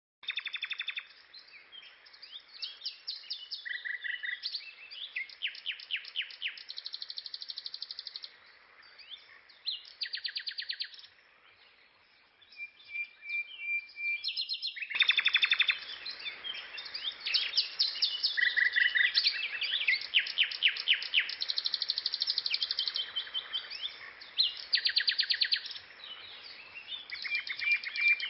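Songbirds chirping and trilling, several rapid note series and short calls overlapping, with a brief lull a little before the middle. About halfway through, the background hiss steps up suddenly and the same run of calls starts again, as if the birdsong track is looped.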